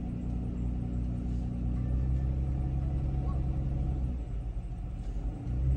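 Minivan engine held at steady raised revs, heard from inside the cabin, as the van tries to reverse out of mud it is stuck in. About four seconds in the revs drop away, then pick up again near the end.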